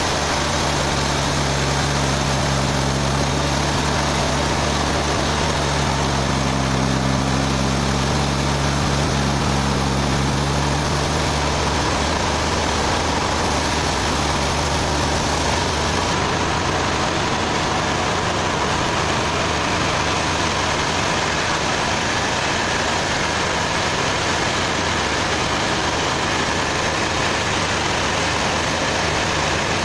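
A sawmill running: a loud, steady engine with dense steady machine noise. The engine's hum stands out clearly for about the first ten seconds, then blends into the noise.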